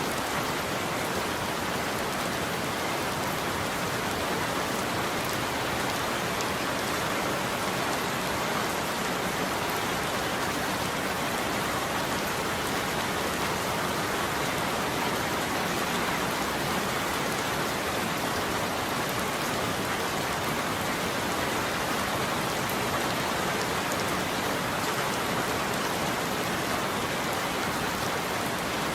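Steady rain falling on a roof, an even, unbroken patter.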